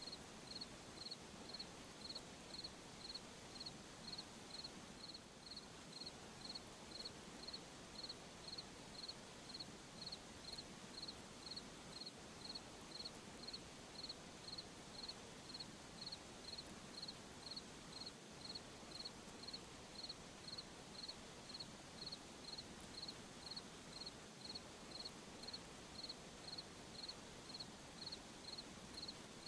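A cricket chirping steadily in an even rhythm, about three short high chirps every two seconds, over a faint steady high-pitched hiss of night insects.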